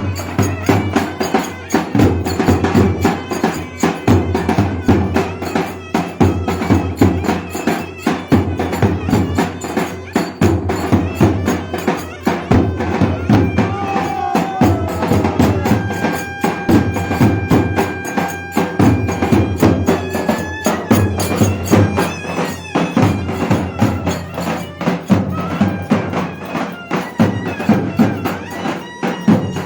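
Turkish folk dance tune (oyun havası) played live on davul and zurna: a reedy pipe melody over a steady, driving drumbeat.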